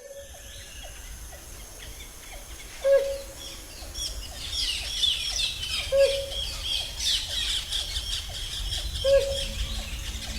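Rainforest birds calling: one short, low call is repeated about every three seconds, and over it a dense chorus of high chirps and twitters builds from about four seconds in.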